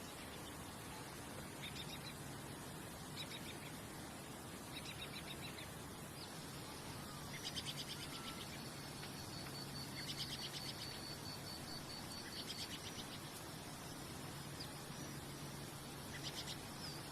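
Nature ambience of calling wildlife: short, rapidly pulsed high trills that recur every couple of seconds. From about a third of the way in, a steady high trill runs on beneath them, over a faint low hum.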